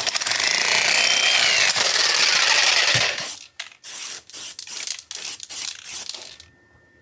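Small electric jackhammer breaking stone. It runs continuously for about three seconds, then in short bursts, and stops about six and a half seconds in.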